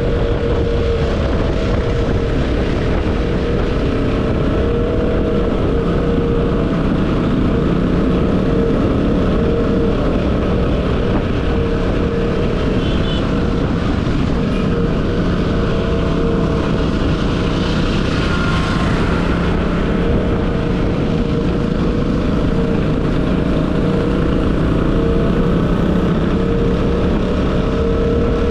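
Motorcycle engine running steadily at cruising speed during a ride, its hum wavering slightly in pitch, with wind rushing past the microphone.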